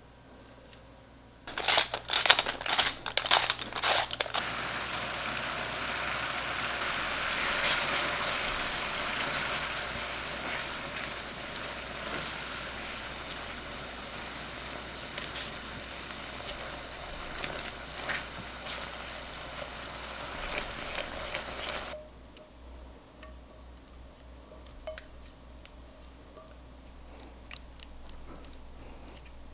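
Food sizzling in hot fat in a frying pan: a short burst of loud crackles as it goes in, then a steady sizzle that cuts off suddenly, leaving faint clicks.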